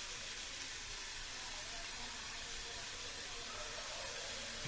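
Grated raw papaya frying gently in ghee in an aluminium kadai on low heat: a faint, steady sizzle.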